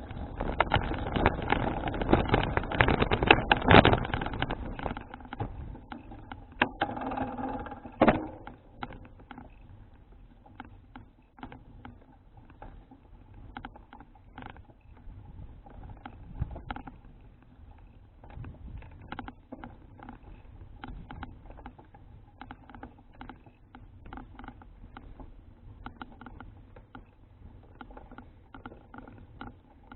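A Citycruiser CFH700 folding bicycle being ridden, heard through an action cam's microphone: heavy wind on the microphone for the first four seconds, then quieter scattered clicks and rattles of the bike over the road.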